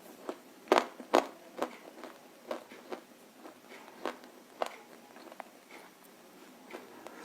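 Crunching bites and chews of roasted nakumatt, eaten with red clay paste: sharp, brittle crunches, about two a second at first, then softer and more spaced out.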